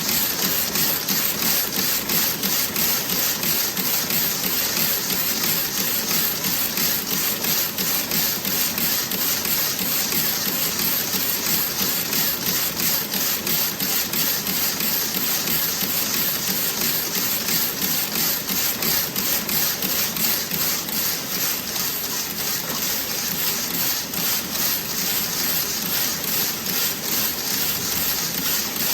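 Toe-sock knitting machine running: a fast, even mechanical clatter over a steady high hiss.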